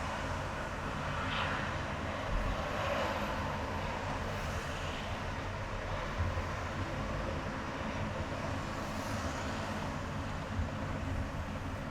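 Steady highway driving noise: engine and tyre rumble with the rush of passing traffic, and a few small bumps along the way.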